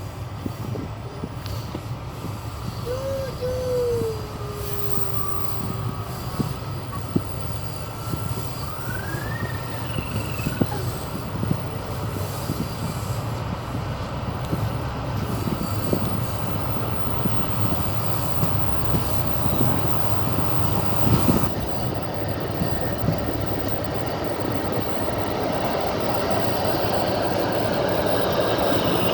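Passenger train's wheels running on the track, heard from inside the carriage: a steady rumble with scattered clacks over rail joints and a couple of brief wheel squeals in the first ten seconds.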